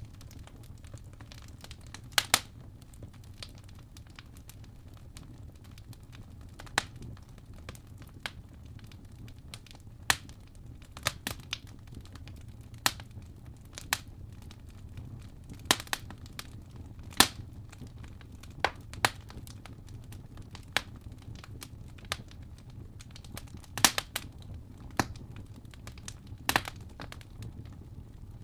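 Fire burning in a fireplace, crackling with sharp pops at irregular intervals, some in quick pairs, over a steady low rumble.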